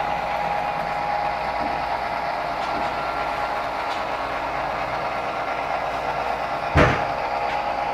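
Model train running on the layout: a steady electric motor hum with wheels rolling on the rails, broken by one sharp thump about seven seconds in.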